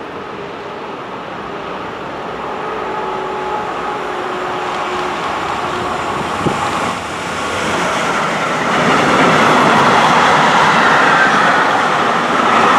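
A train approaching on the railway line, its rumble and rail noise growing steadily louder and reaching full volume about two-thirds of the way through as it passes close. A single sharp click sounds just before the peak.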